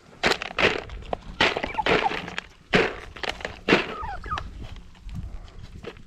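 Turkeys and goats feeding, making a string of sharp cracking and knocking sounds with a short turkey call about four seconds in.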